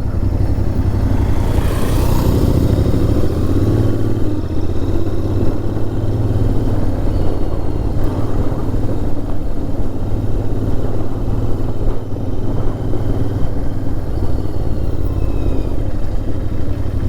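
Motorcycle running at road speed, with a steady heavy rumble of wind on the microphone.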